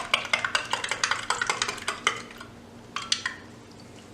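A spoon stirring an isotonic drink mix in a drinking glass: quick clinks against the glass that stop about two and a half seconds in, then a few last taps about a second later.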